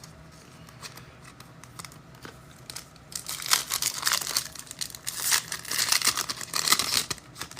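Foil wrapper of a trading-card pack crinkling and tearing as it is opened: a run of crackly rustles from about three seconds in until near the end.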